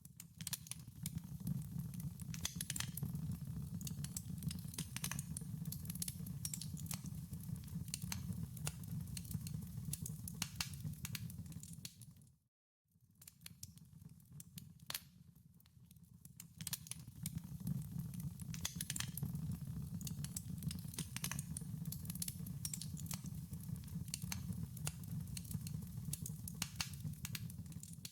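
Wood fire crackling in a fireplace: a steady low rumble of flames with many sharp pops and snaps. The sound cuts out suddenly for about half a second around the middle, then carries on.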